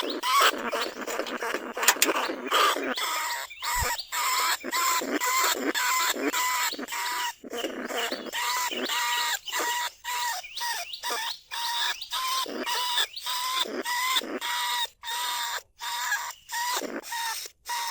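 Small bandicoot rats squealing and chattering from inside a cage trap: a rapid, unbroken run of short, shrill calls, each cut off by a brief gap. These are the rats' calls used as a lure to draw other bandicoot rats from their burrows.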